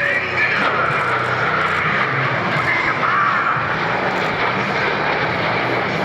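HAL Tejas fighter jet flying its display, its single turbofan engine making a steady, loud rushing noise with a faint whine that bends in pitch midway.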